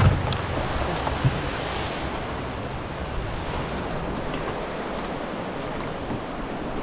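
Rushing whitewater of a mountain river, a steady loud rush of water with no let-up.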